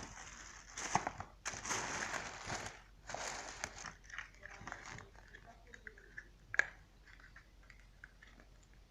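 Rustling and crinkling handling noise in bursts for about four seconds, then fainter scattered clicks with one sharper click.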